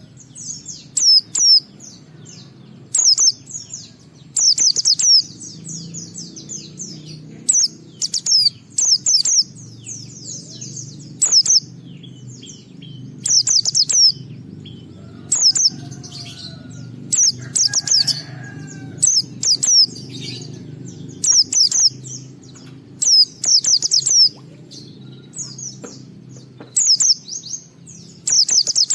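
White-eye (pleci) singing: short, rapid bursts of high, falling chirps and twitters, repeated about every one to two seconds, over a steady low hum.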